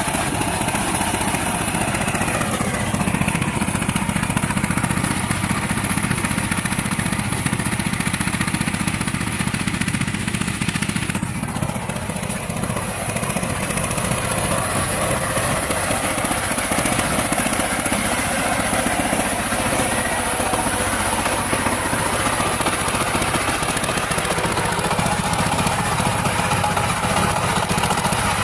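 Power tiller engine running steadily while tilling.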